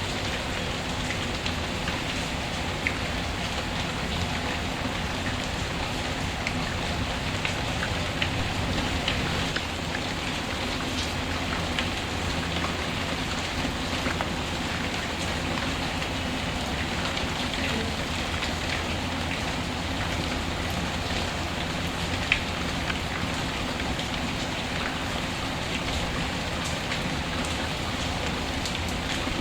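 Steady rain falling on a surface, with small pops and ticks scattered through it from a crackling wood fire, and one sharper pop about three quarters of the way through.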